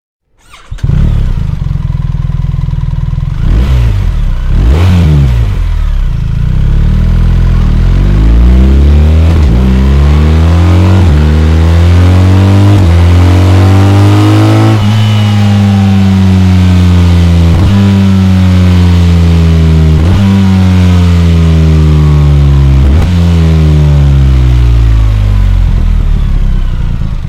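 BMW R 1300 GS Adventure's 1300 cc boxer twin engine running. A quick rev about four seconds in is followed by hard acceleration through several upshifts, the pitch climbing and dropping back at each shift. After about halfway it decelerates, the pitch falling in long steps through the downshifts.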